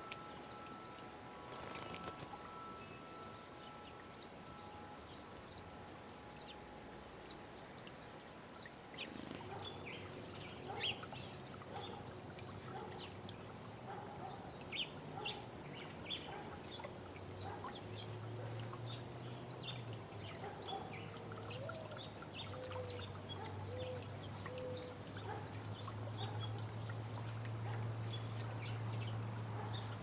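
Birds chirping and calling, many short high notes from about nine seconds in, over steady low tones.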